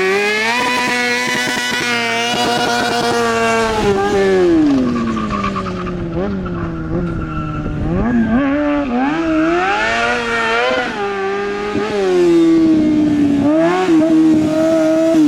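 Motorcycle engine revving hard and held at high revs for a few seconds, then dropping back, revving up again about halfway through and running at a fairly steady high pitch near the end.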